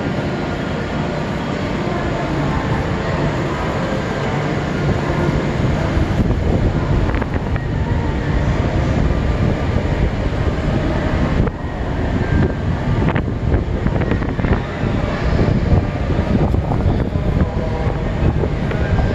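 Shinkansen train moving through the station: a loud, steady rumble of wheels and running gear with a faint motor whine, dipping briefly about eleven seconds in before rising again.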